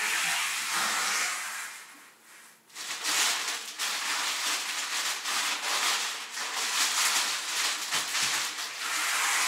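Plastic shopping bag and frozen-vegetable packets rustling and crinkling as they are rummaged through and handled, with a short lull about two seconds in.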